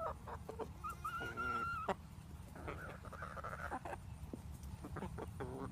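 Hens making short squeaky calls while they feed, with one longer call about a second in, over scattered sharp pecking clicks.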